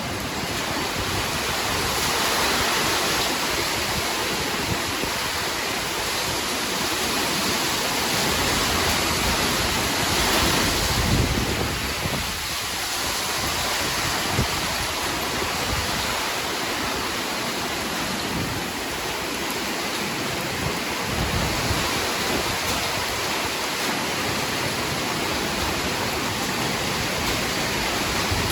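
Heavy rain falling in a steady, dense hiss, with a low rumble of thunder swelling about eleven seconds in.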